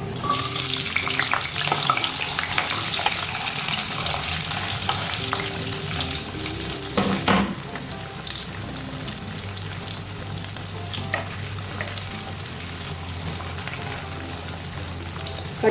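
Cut shallots going into hot oil in a kadai, sizzling hard at once and then easing as they fry. A spatula stirs them with small scrapes and clicks, and there is one louder knock about seven seconds in.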